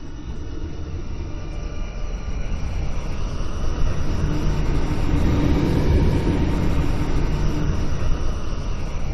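Designed dark flyby whoosh: a deep, low rumble that swells, peaks about two-thirds of the way through, then starts to pass and ease off, like a slow, heavy craft gliding by.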